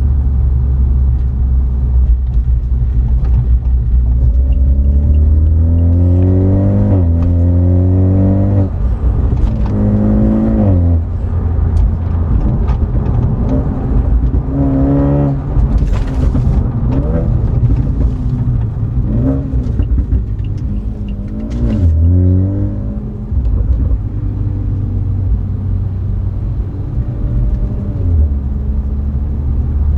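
BMW 330i's B48 turbocharged 2.0-litre four-cylinder engine and exhaust under way. It drones steadily, then revs up and drops back several times as it pulls through the gears, and settles to a steady drone near the end.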